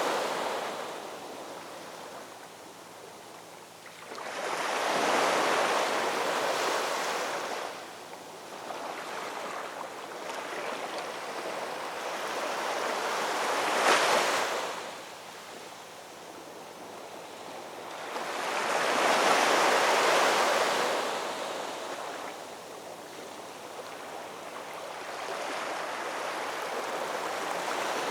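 Ocean waves breaking on a shoreline, each one swelling into a rushing crash and then washing back, about three of them, with the sharpest break near the middle.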